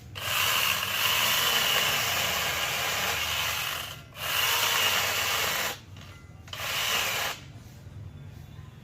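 Angle grinder fitted with a chainsaw adapter, run in three bursts: about four seconds, then a second and a half, then one short second.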